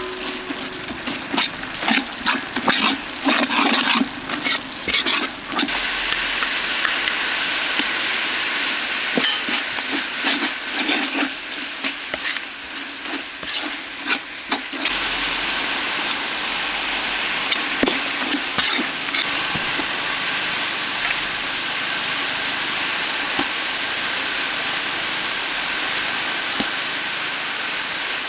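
Food sizzling in a pan, with a utensil stirring and scraping in quick clicks for the first few seconds and again around the middle. After that the sizzle runs on steadily.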